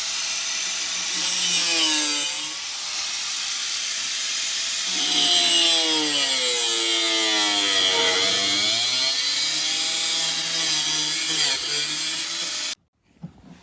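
Angle grinder cutting through a truck's floorboard, its whine dipping in pitch and recovering as the wheel is pressed into the cut. It stops suddenly near the end.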